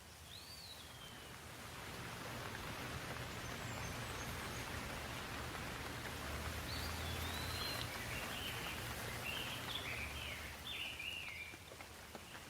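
Steady rain falling, swelling about two seconds in and easing near the end, with birds calling over it: one falling whistle near the start and a run of chirps in the second half.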